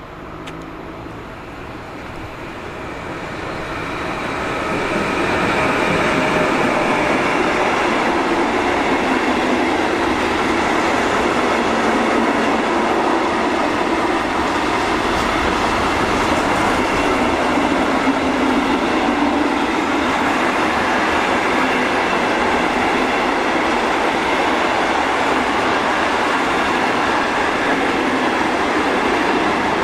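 A long train approaching and then running past close by: the rolling noise of its wheels on the rails swells over the first five seconds and then holds steady and loud.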